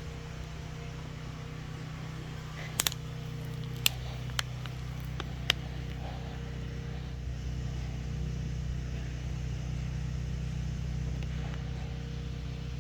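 A steady low engine hum, like a motor idling, with a few sharp clicks in the first half.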